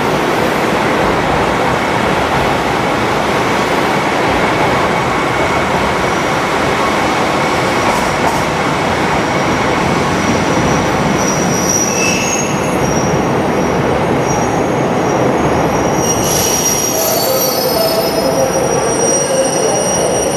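Train running along the track at close range, a loud steady rumble. High thin wheel squeals set in about halfway through and grow stronger near the end.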